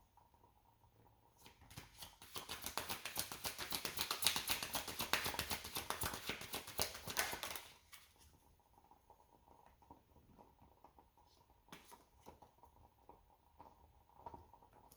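A deck of tarot cards being shuffled by hand: about five seconds of fast, dense card clicking and rustling, followed by a few single soft clicks as cards are handled.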